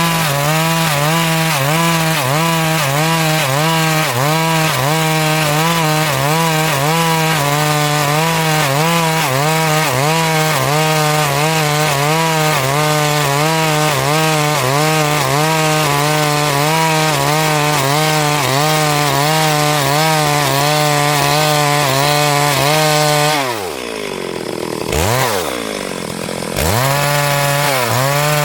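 Stihl MS382 two-stroke chainsaw running at full throttle while ripping lengthwise through a hardwood log, its pitch wavering about once a second under the load of the cut. Near the end the throttle is let off twice, with a short rev in between, before the saw comes back up to full speed.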